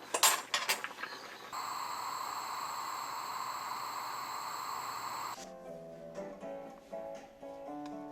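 A few sharp clicks, then a steady hiss for about four seconds that cuts off abruptly. Gentle acoustic guitar music then begins.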